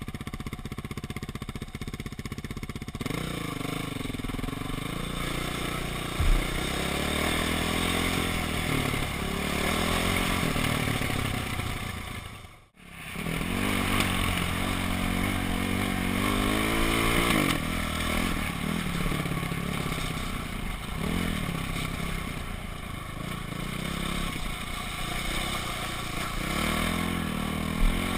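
Dirt bike engine running under way, its pitch rising and falling as it revs up and down through the gears, over a steady rushing noise. A short thump about six seconds in, and the sound drops out for an instant about halfway.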